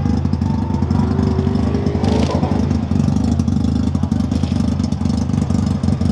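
Car engine idling steadily and loudly at close range, its exhaust pulsing fast and evenly with no revving.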